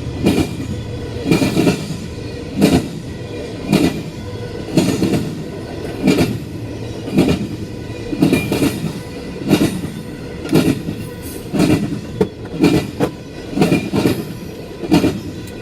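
Intermodal freight train cars rolling past, their wheels clacking over rail joints about once a second over a steady rolling rumble.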